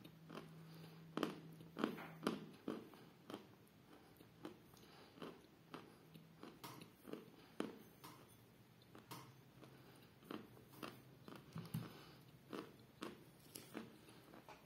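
Close-up chewing of a mouthful of edible chalk of the 'Damsky Kapriz' variety: a long series of short crunches, roughly one or two a second, loudest in the first few seconds.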